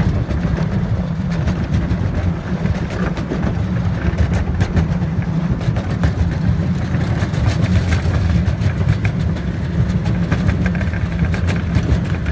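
Miniature park train running along its track, heard from aboard one of its open passenger cars: a steady low rumble with frequent clicks and clatter from the wheels and cars.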